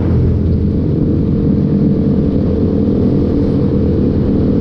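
Motorcycle engine running steadily at an even cruising speed.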